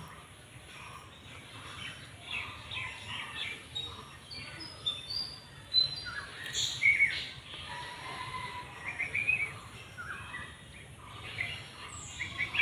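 Several birds chirping and twittering in quick, scattered calls, with a few short high whistles among them, over faint background noise.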